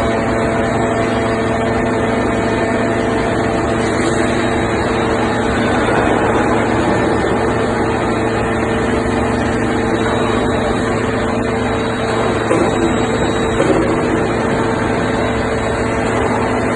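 Hydraulic power unit of a 6000-ton rail-end forging press running steadily: a loud, even machinery drone with several steady hum tones under it.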